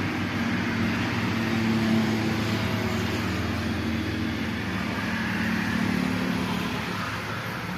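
An engine running steadily, a continuous low hum with only a slight rise and fall in loudness.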